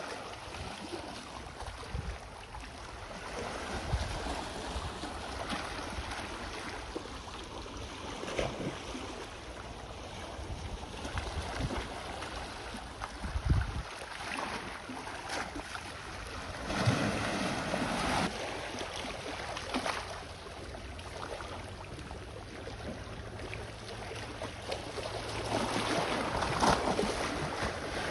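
Ocean waves washing on the shore, a steady wash that swells louder every few seconds, with a few short low thumps.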